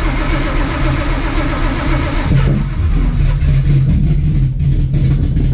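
Supercharged, cammed Ford Coyote 5.0 V8 being cranked on the starter, catching about two seconds in and running roughly and unevenly. The owner takes the stumble for too little fuel, and possibly off ignition timing.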